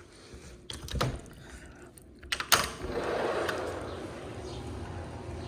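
A door being handled: a few clicks, a louder knock about a second in, and a sharp bang about two and a half seconds in, followed by a steady rushing background of open air.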